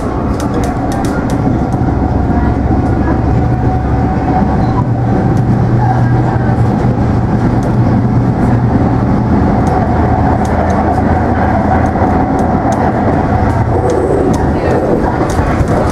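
MARTA rapid-transit train car running along the line, heard from inside the car: a steady rumble of wheels on rail with a steady whine over it and scattered light clicks. It grows slightly louder over the first couple of seconds.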